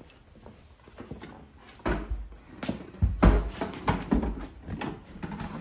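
Handling noise of objects being moved about: a run of knocks and thumps starting about two seconds in, the heaviest about three seconds in.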